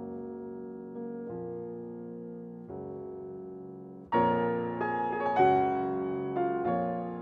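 Background music: soft piano chords, held and ringing, changing every second or so, growing louder and brighter about four seconds in.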